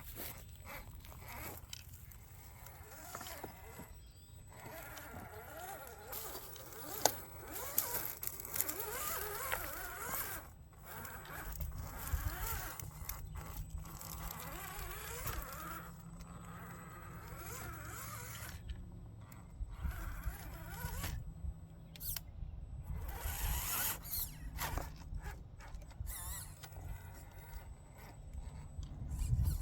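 RC crawler's small electric motor and gearbox whining, the pitch rising and falling as the throttle is worked, with scattered clicks and scrapes from the tyres and chassis on the ground.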